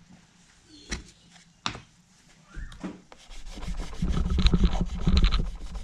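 Hands working inside a turntable during disassembly: two sharp clicks, then a scratchy stretch of rubbing and small knocks of parts being handled, louder in the second half.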